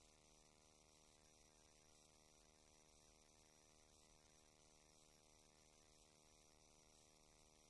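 Near silence: a faint, steady electrical hum with hiss, heard with the microphone switched off.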